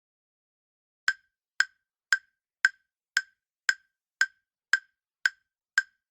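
Ticking sound effect of a quiz countdown timer: sharp, evenly spaced ticks, about two a second, starting about a second in.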